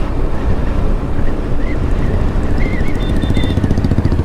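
Motorcycle running at road speed, with heavy wind rumble on the action camera's microphone. A faint wavering high tone comes in about halfway through.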